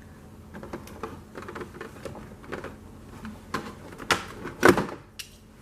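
Small plastic toy pieces being handled and set down: a run of light clicks and rattles, with the loudest knocks about four and a half seconds in.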